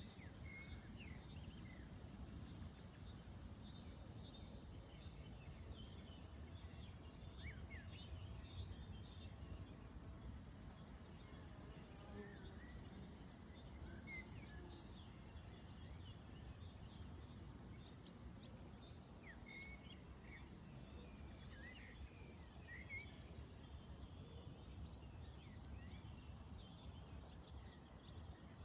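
Crickets singing: a steady, high, rapidly pulsing trill that never pauses. Faint short chirps come and go over it, with a low background rumble underneath.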